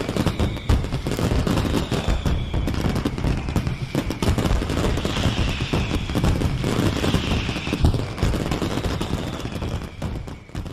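Fireworks display: a dense, rapid crackle of bangs and reports, with high whistles at times, fading out near the end.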